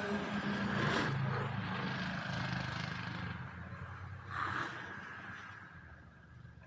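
A vehicle engine running, a low steady hum that fades away toward the end, with a couple of short knocks.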